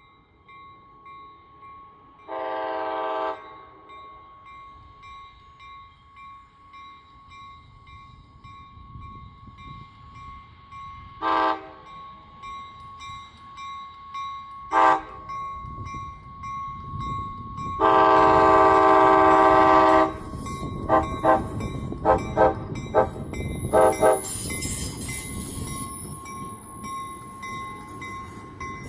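Train horn sounding as a train approaches: a blast of about a second, two short toots some seconds apart, a long blast of about two seconds, then a quick string of short toots. Under it, the low rumble of the locomotive and wheels grows louder as the train draws near.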